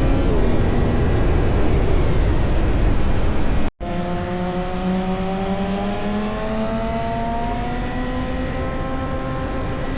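Motorcycle engine running at speed on a racetrack, heard onboard under heavy wind rumble. The sound cuts out for an instant just before 4 seconds in, then the engine note climbs steadily as the bike accelerates.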